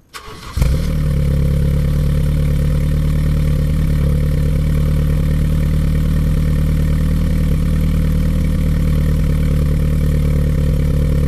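BMW E30 M3's S14 four-cylinder engine starting, catching about half a second in, then idling steadily through the stock muffler with an Ansa resonated mid pipe and stock headers.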